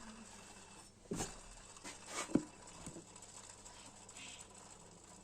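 Worn belt idler pulley bearing on a Mazda 6 spun slowly by hand, giving a faint rustling with a few light clicks. The owner takes the failing bearing for the cause of the belt-drive squeal at engine start.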